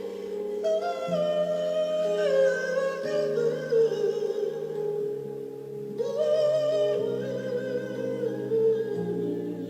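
Solo singer holding a long wordless melismatic run with a wavering pitch, over a backing track of sustained accompaniment chords that change every second or two.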